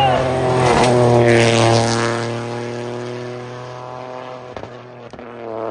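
Rally car engine passing at speed, loudest about a second in, then fading away with a slowly dropping pitch. A couple of sharp pops sound near the end.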